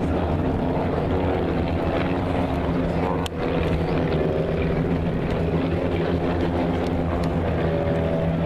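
An engine drones steadily at a constant pitch, with a sharp click a little over three seconds in.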